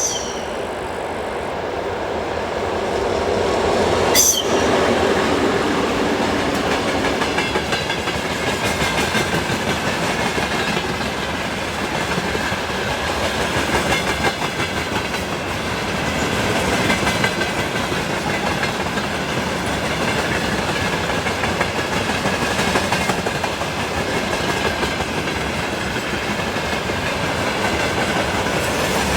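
A freight train's wagons rolling past with steady wheel clatter over the rails and a faint high wheel squeal. A single sharp bang comes about four seconds in.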